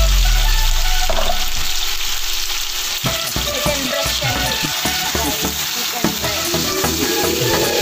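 Raw chicken breast pieces and garlic sizzling in hot oil in a stainless steel frying pan, with a spatula scraping and stirring through them in quick strokes from about three seconds in.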